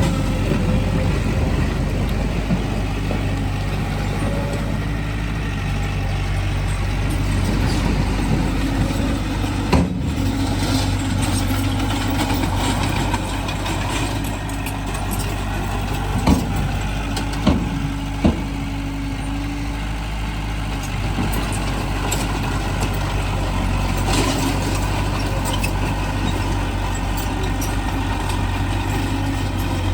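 Diesel engines of heavy earthmoving machinery running steadily, with a few sharp knocks about ten seconds in and three more around sixteen to eighteen seconds in.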